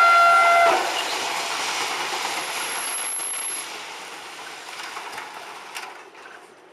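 Train horn sounding a steady chord that cuts off under a second in, followed by the noise of the train running past and fading away.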